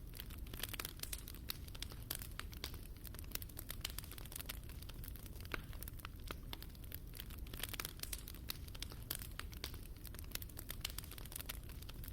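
Fire burning in a fireplace, crackling with frequent irregular sharp pops over a low steady rumble.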